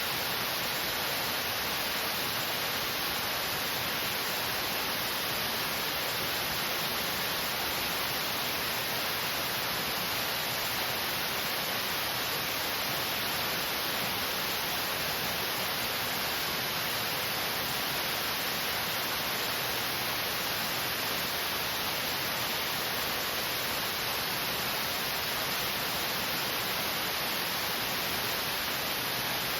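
Waterfall flowing over a rock face: a steady, even rush of water with no breaks or changes.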